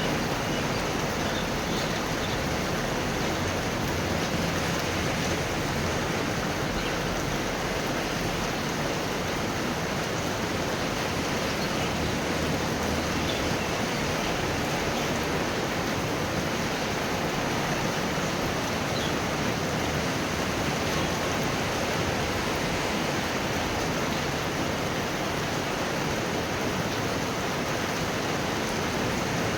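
Heavy rain falling steadily in a thunderstorm, an even hiss and patter with no break.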